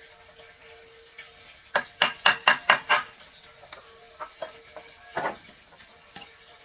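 A quick run of six sharp knocks, about five a second, then a few lighter knocks, like wood or utensils being struck.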